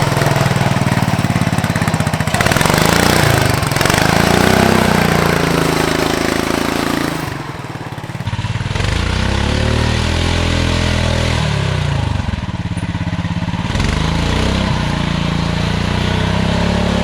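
Built off-road lawn tractor engine revving and easing off over and over, its pitch rising and falling. The level dips briefly about seven seconds in.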